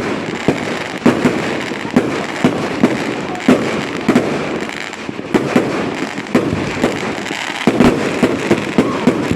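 Fireworks going off in quick succession: a steady run of sharp bangs and pops, several a second, over continuous crackling.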